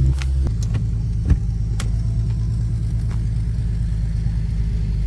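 Infiniti G37 sedan's V6 engine running steadily as a low drone. Its note drops about half a second in, and a single sharp click comes about a second later.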